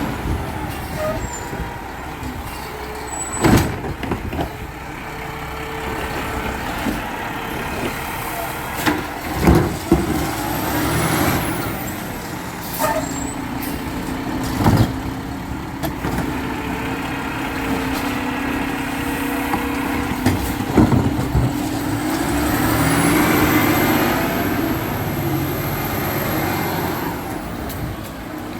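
Garbage truck running, with sharp metal clanks every few seconds and a whine that rises and falls twice.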